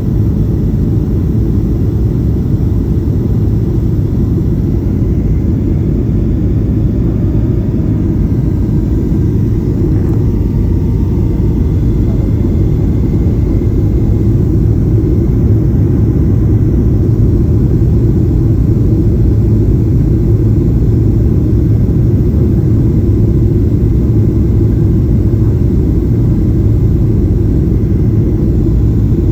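Steady low rumble of a Boeing 737-800 heard from inside the passenger cabin: engine and airflow noise, unbroken and even.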